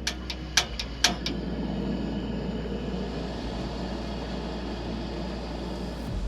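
Campfire crackling: a quick run of sharp pops in the first second and a half, then a steady low rushing noise.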